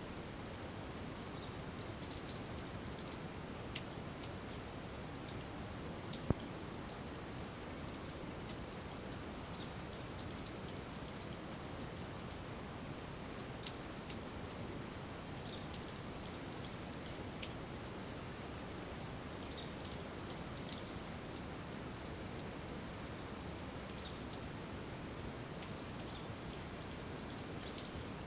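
Steady rain falling, with a bout of rapid high-pitched chirping every few seconds and a single sharp tick about six seconds in.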